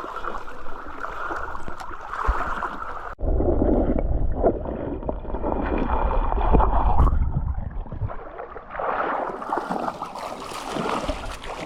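River water running and gurgling, with wind rumbling on the microphone. The sound changes abruptly about three seconds in, and the rumble is strongest for the next few seconds.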